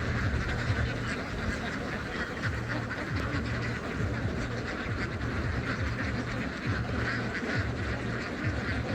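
A large flock of young domestic ducks quacking together in a dense, continuous chorus of overlapping calls, with a steady low rumble underneath.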